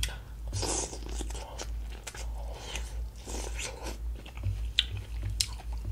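Close-up biting and chewing of fresh boiled corn on the cob: kernels crunched off the cob and chewed at an uneven pace, with a few sharp clicks.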